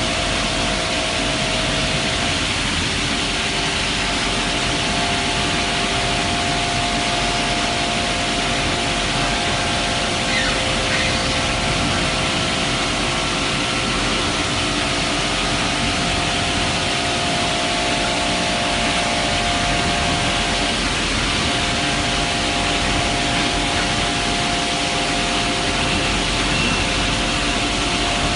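CNC milling machine semi-finishing a bottle-feed timing screw with continuous four-axis interpolation: a steady cutting hiss with a few held tones over it.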